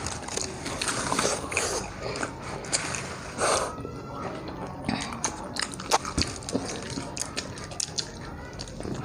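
Close-miked eating sounds: people biting and chewing food, with irregular wet smacks and clicks throughout and a brief louder burst about three and a half seconds in.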